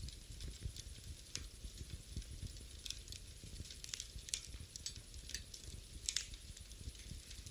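Wood fire in a fireplace crackling: irregular sharp pops and snaps over a low, steady rumble of the flames.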